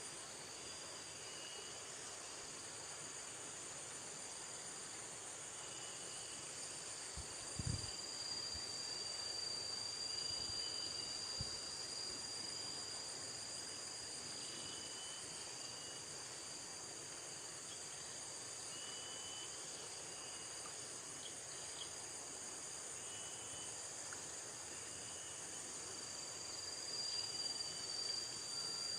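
Steady high-pitched chorus of insects in forest, with a few faint short chirps scattered through it. A brief low thump comes about eight seconds in.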